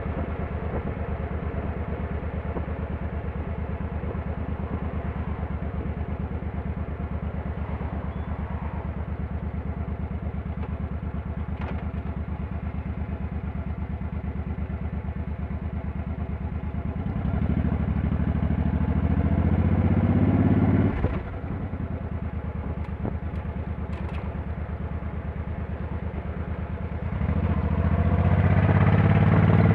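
Motorcycle engine running at a steady road speed, then revving up with rising pitch for a few seconds before suddenly dropping off. After a steady stretch it climbs again near the end.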